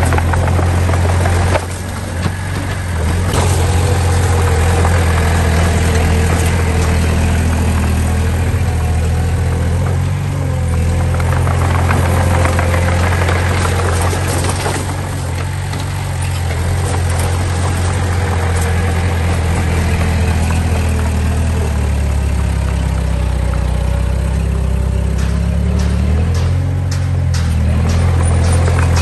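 Diesel engine of earthmoving machinery running steadily with a deep drone, its level dipping briefly a couple of times.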